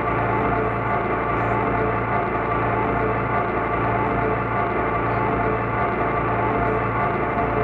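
Ambient electronic music: a dense, steady drone of many sustained tones with a metallic, gong-like shimmer and no beat.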